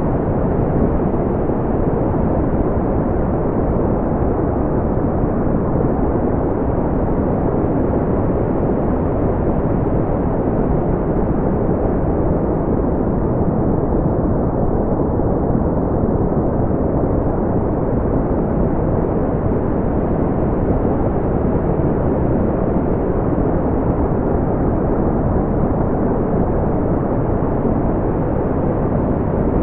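Steady, smoothed brown noise: a deep, even rumbling hiss, strongest in the bass and falling away toward the highs, with no tones or events.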